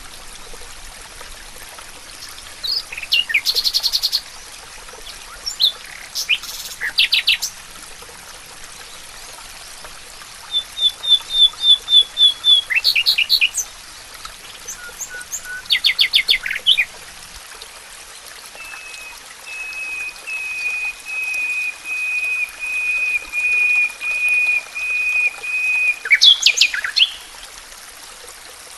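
Several forest birds calling and singing: short chirps and quick trills come in scattered bursts over a soft, steady hiss. About two-thirds of the way in, one bird holds a long run of rapid, even notes on one pitch for about seven seconds.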